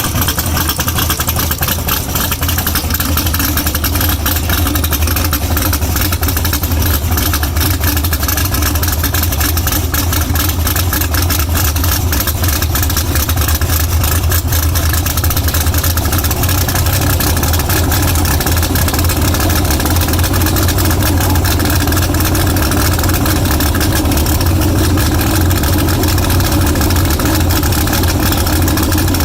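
A car engine idling loudly and steadily.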